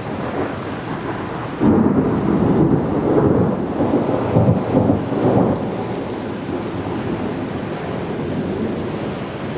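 Thunder rumbling from a thunderstorm: it breaks in suddenly about a second and a half in and rolls on for about four seconds, over a steady hiss of rain.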